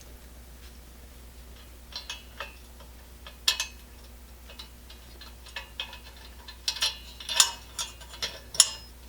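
Small metal parts clicking and tapping as the generator of a Coleman 502 stove is worked into its eccentric block. The light clicks are scattered at first and come more often near the end.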